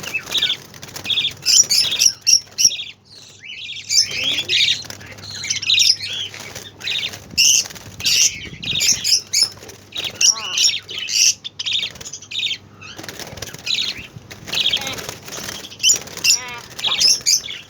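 Young budgerigars flapping their wings in a flurry and chirping in short, irregular bursts as they flee from a hand trying to catch one.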